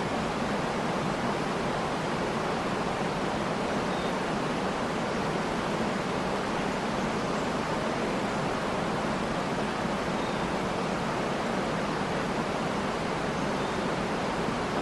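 Steady rushing of a waterfall, with a few faint bird chirps.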